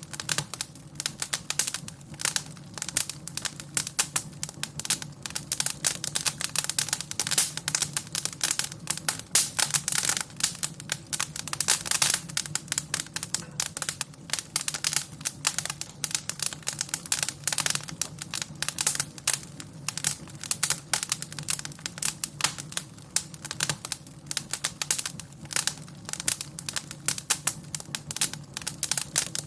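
Wood fire crackling: a dense, irregular run of pops and snaps over a low steady rumble.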